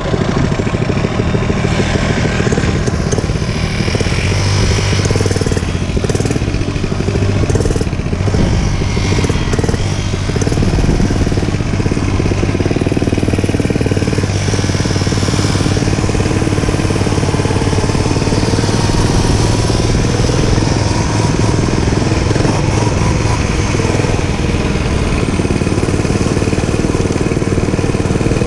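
Dirt bike engine running steadily while the bike is ridden.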